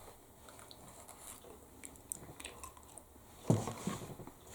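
A person chewing a mouthful of soft, chewy noodles close to the microphone, with faint wet clicks of the mouth. About three and a half seconds in there is a louder, muffled low sound.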